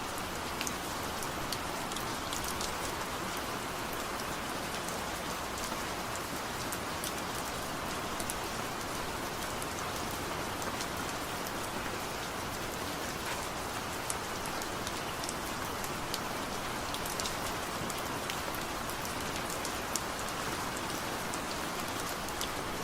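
Steady rain falling on a surface, an even hiss with scattered sharp drop ticks, no thunder.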